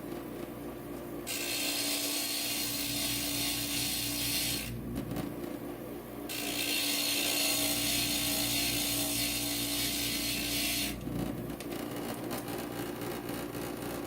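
Inland stained glass grinder's motor running steadily while a glass piece is pressed against the spinning diamond bit, giving a loud gritty hiss in two long passes, from about a second in and again from about six to eleven seconds in. The edge, cut at the wrong angle, is being ground down to fit the pattern.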